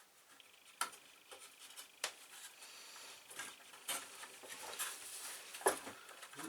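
Light clicks and taps of plywood kit parts being handled and fitted together on a workbench, with a soft rustle in between; four sharper clicks stand out.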